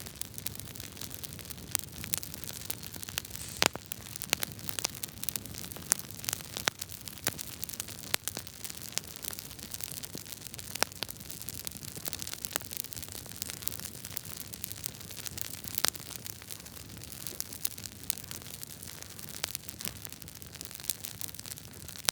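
Wood fire crackling in a fireplace: a steady hiss with frequent sharp, irregular pops, a few of them louder than the rest.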